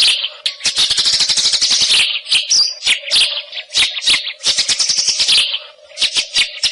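White-rumped shama (murai hutan) singing: rapid, dense runs of sharp high chattering notes, in bursts broken by brief pauses. A faint steady hum lies underneath.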